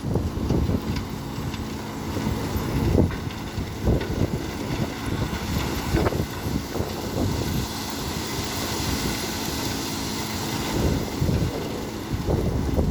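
Heavy truck engine running steadily, with wind buffeting the microphone.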